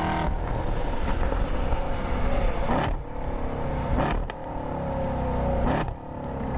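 A car engine revving under hard acceleration. Its pitch climbs and breaks three times as it shifts up through the gears.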